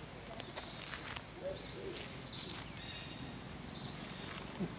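Birds chirping: a few short high chirps about a second and a half apart, with a thin held whistle between them, over steady outdoor background noise.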